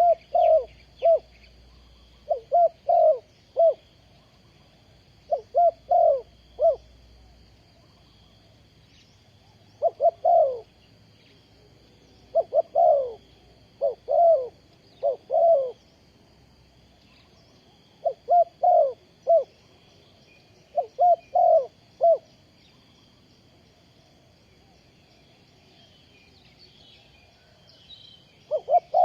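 Spotted dove cooing: phrases of three or four low hooting notes repeated every few seconds, with a pause of several seconds before it starts again near the end. A faint steady high whine runs underneath.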